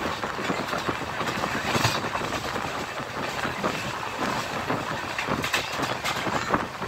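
Passenger train running along the track, heard from inside its coach: a steady rumble of wheels on rails with irregular clicks and clacks throughout.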